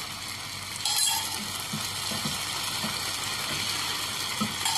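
Chicken and vegetables sizzling in a hot frying pan as a cornflour-and-water slurry is poured in; the sizzle surges about a second in, then settles to a steady hiss while a wooden spatula stirs the thickening sauce.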